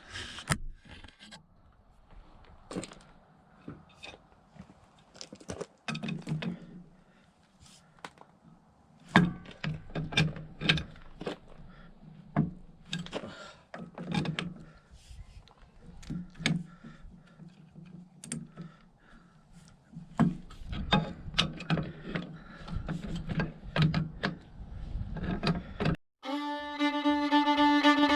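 Irregular metal clanks, knocks and clicks of hand-tool work on the backhoe's outrigger street pads as they are taken off. A fiddle tune comes in near the end.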